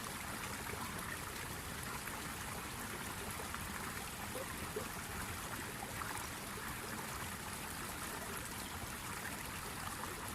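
Steady rushing, trickling noise like running water, with faint scattered ticks.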